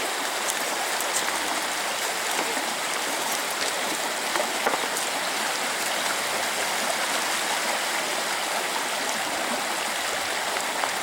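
Fast mountain river rushing over rocks: a steady, even roar of water, loud enough to drown out voices.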